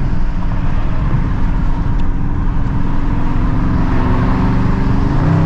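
Straight-piped Dodge Scat Pack 6.4-litre HEMI V8 exhaust running loud under way, heard from inside the car with the windows down. Its pitch climbs near the end as it picks up speed.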